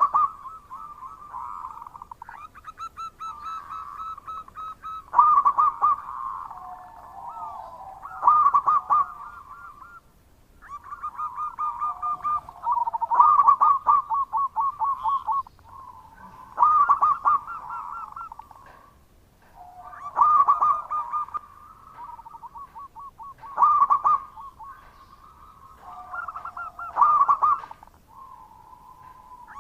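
Zebra doves (perkutut) cooing: rapid, staccato pulsed coo phrases repeated every three to four seconds, with quieter cooing at a slightly different pitch overlapping between the loud phrases.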